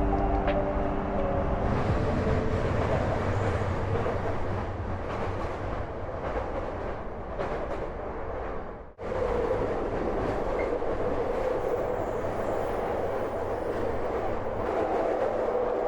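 Commuter train running, a steady rumble of wheels on rails. The sound drops out for an instant about nine seconds in, then resumes.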